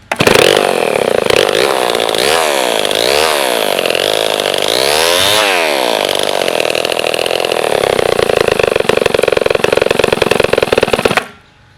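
Homelite Super XP 1020 100cc two-stroke chainsaw firing on a pull and running loud, revved up and down several times in the first few seconds. It then runs steadily with a choppier beat and shuts off suddenly near the end.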